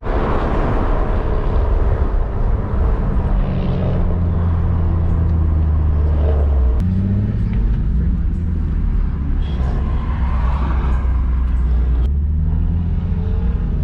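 Car driving: a steady low engine drone and road rumble, with the engine note shifting about halfway through and again near the end.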